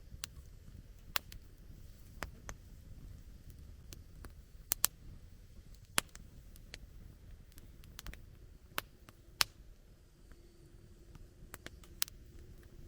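Wood campfire crackling: irregular sharp pops and snaps of varying loudness over the low, steady rumble of the burning fire.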